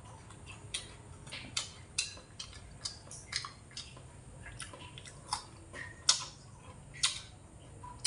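A person chewing crisp, crunchy food close to the microphone, with irregular sharp crunches and mouth clicks about one or two a second.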